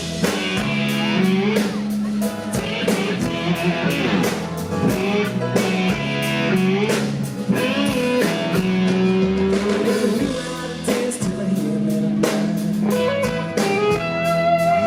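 Country rock band playing live: an instrumental stretch with electric guitar playing bending notes over bass and a drum kit keeping a steady beat.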